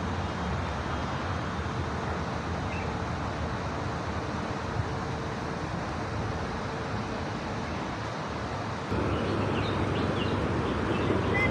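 Steady outdoor background noise, which gets louder at a cut about nine seconds in, with a few short high chirps near the end.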